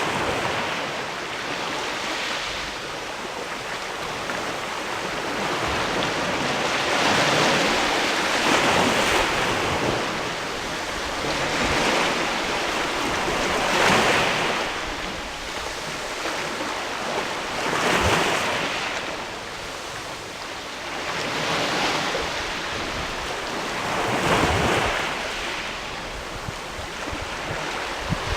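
Sea waves washing against a rocky shore, each surge swelling in a hiss and then falling back, repeating irregularly every two to four seconds.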